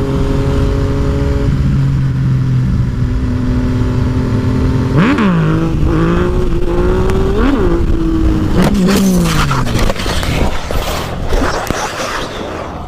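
Motorcycle engine running at a steady pitch under a constant rumble of wind and road noise, then revving up and down several times before its pitch falls away. Near the end come scattered knocks and scraping, typical of a bike going down.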